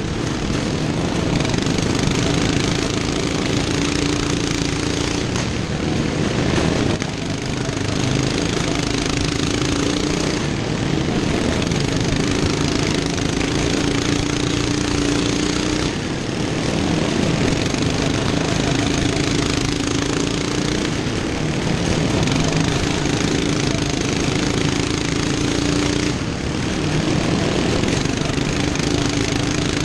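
Racing lawn mower engines running hard at full throttle, their pitched drone steady but shifting about every five seconds as the mowers come round.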